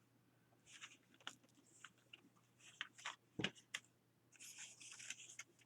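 Faint paper handling: magazine cut-outs rustling and crinkling with small scattered clicks, and one soft knock on the work surface a little past midway.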